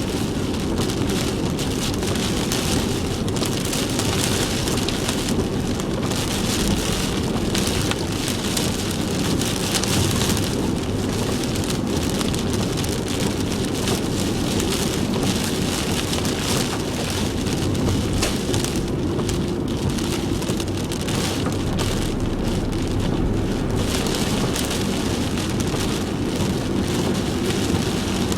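Heavy typhoon rain pouring steadily, with a low rumble of car and road noise under it.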